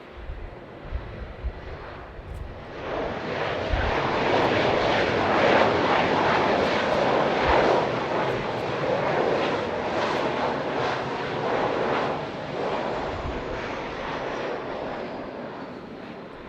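Jet airliner's engines passing overhead, a rushing noise that swells a few seconds in and then slowly fades, with a faint whine that falls in pitch as it goes. Wind buffets the microphone at the start.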